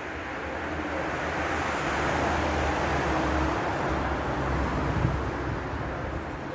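A vehicle passing by, its rumbling noise swelling to a peak in the middle and then fading, with a small knock near the end.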